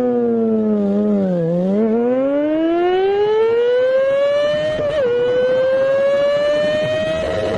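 Kawasaki Ninja ZX-14R's inline-four engine pulling hard under full throttle. Its pitch sags for the first second and a half, then climbs steadily, with a quick dip near five seconds as it shifts up a gear.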